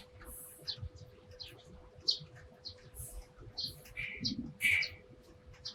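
Eurasian tree sparrows chirping: many short, quick chirps from several birds overlapping. Two lower, louder chirps come a little past the middle, and a faint steady hum lies underneath.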